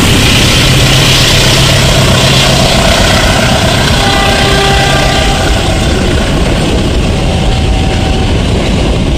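Passenger coaches behind a CC 201 diesel-electric locomotive rolling past close by, a loud steady rush of wheels on rail. The locomotive's low engine hum fades out about three seconds in, and the train gets slightly quieter in the second half.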